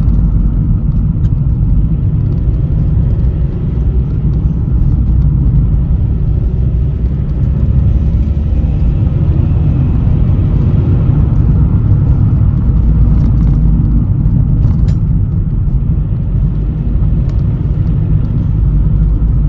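Steady low road rumble and tyre noise inside the cabin of a Vauxhall Meriva B automatic on the move, with a faint engine note slowly rising and falling under it. Tyre noise is all there is to hear; the car otherwise runs spot on.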